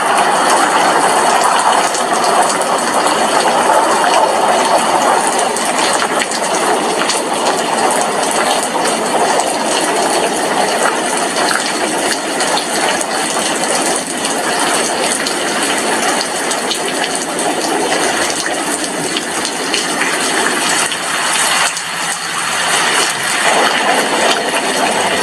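Heavy rain falling steadily, dense drops striking window glass.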